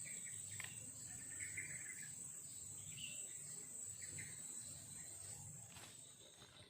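Steady high-pitched insect chorus, with a few short, faint chirps scattered through it.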